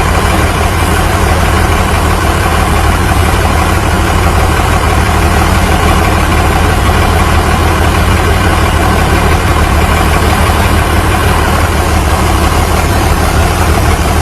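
A loud vehicle engine running steadily at a constant speed, with a deep, even hum and no revving.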